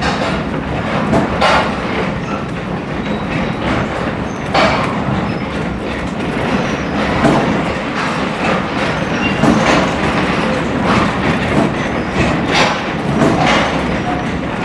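Heritage railway passenger coach rolling along the track, heard from on board: a steady rumble of wheels on rail with irregular clicks and knocks from rail joints.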